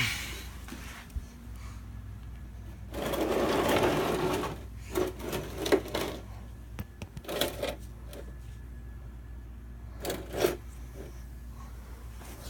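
Rustling, scraping and a few knocks from hands and tools working at a truck's oil filter, over a steady low hum.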